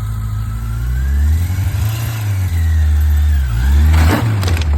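Yamaha FJR1300's inline four-cylinder engine revving up and back down as the throttle is worked in the friction zone during a slow U-turn from a stop. A short noisy burst follows near the end.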